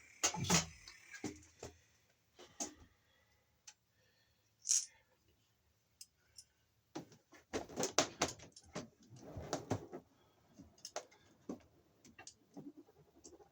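Scattered clicks, taps and scrapes of hand tools and small metal parts being handled at an electrical junction box. The clicks come close together between about seven and ten seconds in.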